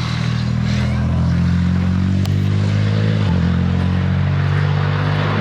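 Racing engine running under load, a deep multi-layered drone whose pitch sags slowly and then drops sharply about three seconds in.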